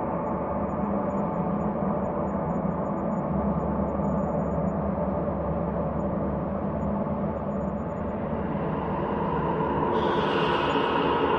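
Ambient space drone: a steady, dense hum of many layered low tones. About ten seconds in, a brighter, hissy upper layer comes in and the drone grows a little louder.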